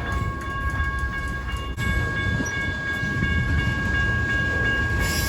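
A long BNSF freight train's cars rolling past, a steady low rumble of wheels on rail, with a steady high-pitched tone running over it.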